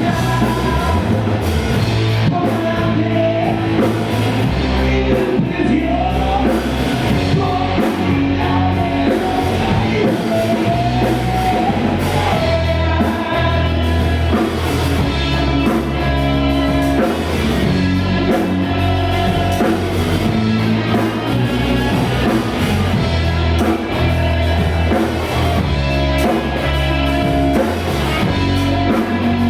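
A rock band playing loudly: electric guitar and drum kit, with a melody line wavering in pitch in the first half.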